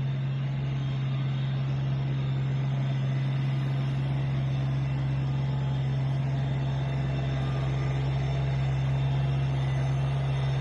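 Vehicle engine running steadily at a constant speed, a continuous low drone over road and mechanical noise, while hauling a load of firewood.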